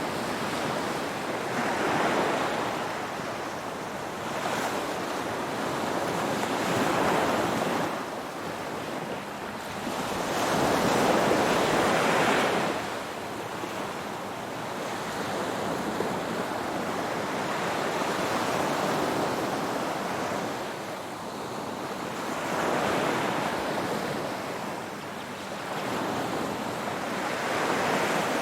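Ocean waves breaking and washing on the shore, the surf swelling and ebbing in slow surges every few seconds, the strongest about eleven seconds in.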